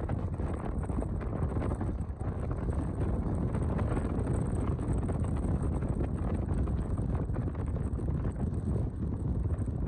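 Wind buffeting the microphone: a steady, dense low rumble of noise that fluctuates without pause.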